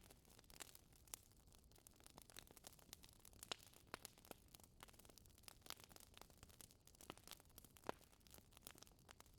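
Wood fire crackling: a faint hiss with irregular sharp pops and snaps, several a second, a few standing out louder.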